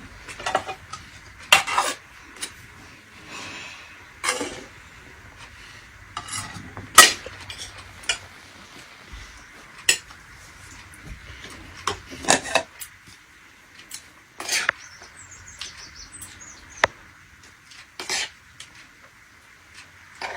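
Metal utensils clinking and scraping against pots and dishes, with irregular knocks and scrapes every second or two.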